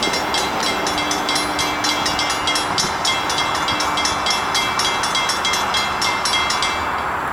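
A light engine consist of six CSX diesel locomotives running by, a steady rumble and hiss of engines and wheels. Over it comes a rapid metallic ringing or clicking, about four strikes a second, which stops near the end.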